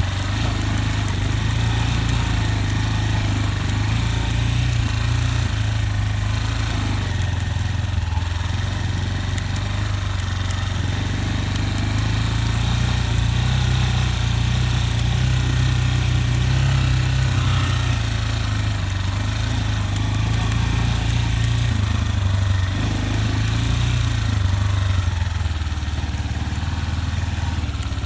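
Motorcycle engine running steadily in a low-pitched tone that rises and falls a little.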